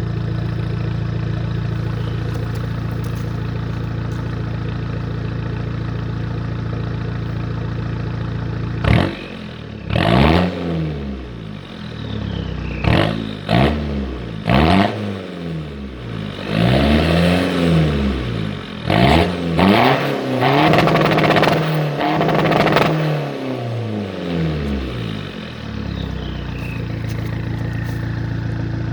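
Straight-piped 2.5 inch exhaust of a tuned 1.9 CDTi diesel with a hybrid turbo: the engine idles steadily, then is revved repeatedly from about nine seconds in. The revs are a mix of quick blips and longer held revs. A high whistle falls in pitch as the revs drop, and the engine settles back to idle near the end.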